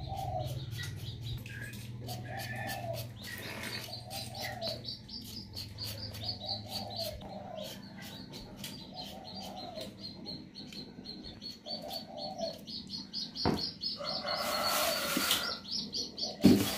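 Birds calling: a short low call repeated about every one and a half seconds, over fast high chirping. A brief hiss comes near the end, followed by a sharp knock.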